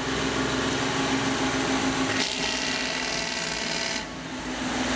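Heavy logging truck's diesel engine running steadily under load as it hauls logs uphill, a constant droning hum that shifts abruptly about two seconds in and again near the end.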